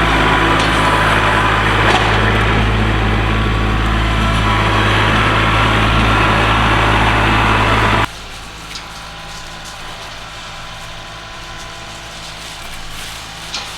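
Kubota tractor's diesel engine running steadily, loud for about eight seconds, then dropping suddenly to a much quieter running sound.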